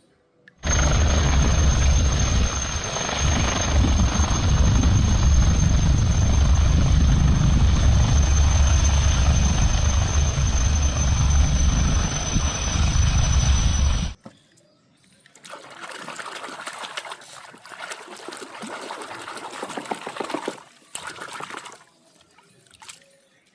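Loud steady spray of water with a thin high whine over it, starting abruptly about half a second in and cutting off suddenly at about fourteen seconds; then quieter, uneven water sounds for several seconds.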